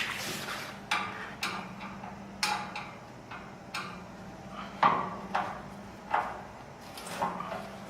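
Self-tapping screws being undone from the sheet-metal cover at the base of a steel wood stove: irregular metallic clicks and knocks about a second apart, the loudest about five seconds in.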